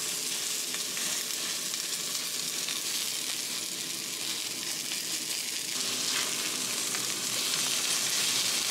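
Turkey burger patties frying in hot bacon grease in a cast iron skillet: a steady sizzle that gets a little fuller and louder from about six seconds in.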